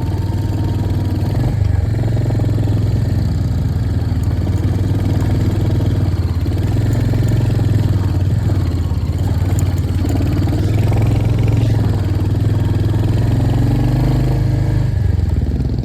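Royal Enfield Hunter 350's single-cylinder engine running steadily while the bike is ridden, with a brief dip in its note near the end.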